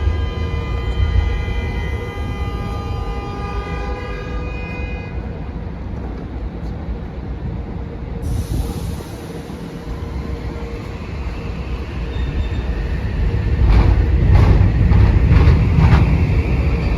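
Metro-North commuter train at the station: a held chord of steady, ringing tones over the train's low rumble, fading out about five seconds in. From about thirteen seconds in, rumble and rapid rail clatter build as a train comes through.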